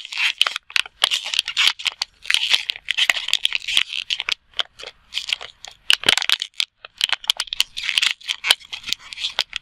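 An empty plastic water bottle being crushed flat by hand from the bottom up: fast, irregular crackling and crinkling of thin plastic.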